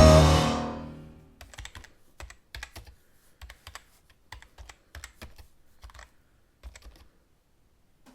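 A held music note dies away in the first second, then a series of light, irregular clicks and taps.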